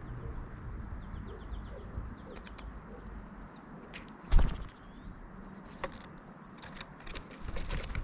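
Scattered close taps and knocks of birds pecking and moving right by the microphone, with a loud thump about four seconds in. Faint bird chirps are heard in the background.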